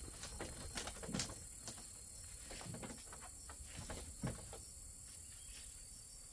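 Faint outdoor ambience: a steady high-pitched drone of insects with scattered light knocks and taps, two slightly louder ones about a second in and about four seconds in.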